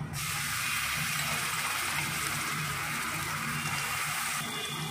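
Onion-garlic paste and chopped ginger sizzling steadily as they fry in hot oil and ghee in a kadai.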